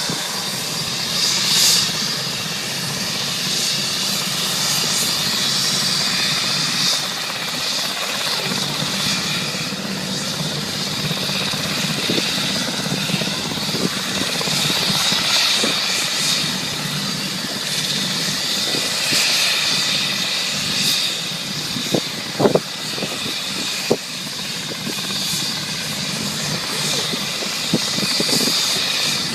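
Air ambulance helicopter's turbine and rotor running at a steady high whine with rotor noise. A few brief knocks come about two-thirds of the way through.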